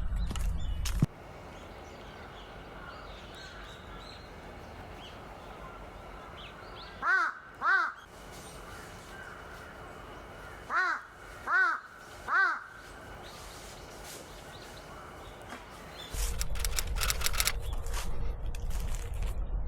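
A crow cawing: two caws about seven seconds in, then three more a few seconds later, each one short and arched in pitch. There is a low rumble in the first second and again near the end.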